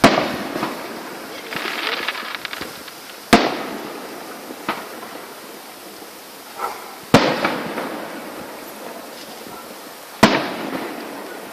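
Fireworks bursting: four loud bangs about three to four seconds apart, each trailing off. A spell of crackling follows the first bang, and a couple of smaller pops fall between the bangs.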